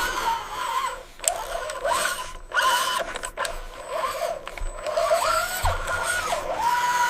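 Small electric motors of a radio-controlled construction model whining. The pitch steps and slides up and down as the machine moves and works, stopping and restarting several times, with a few sharp clicks.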